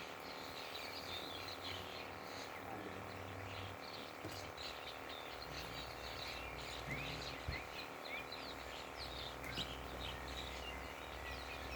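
Small birds chirping and twittering, with many short high calls overlapping one another.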